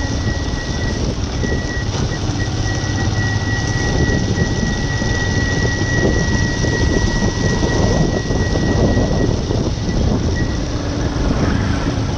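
Steady running noise of a moving vehicle, a continuous rumble with a thin high whine that fades out near the end.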